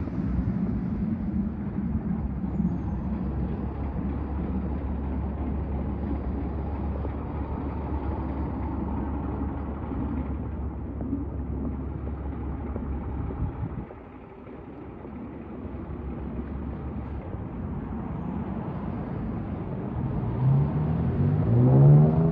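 Street traffic: a motor vehicle's engine runs steadily, then fades about fourteen seconds in. A second vehicle then approaches with its engine pitch rising as it speeds up, loudest near the end.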